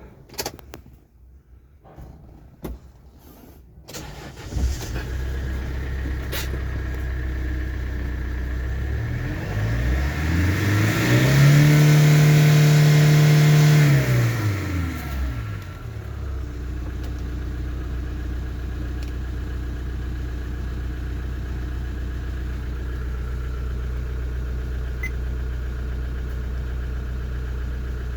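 Kia Bongo III truck's diesel engine starting about four seconds in after a few clicks, then idling steadily. It is revved once in the middle, rising, holding high for a few seconds and falling back to idle.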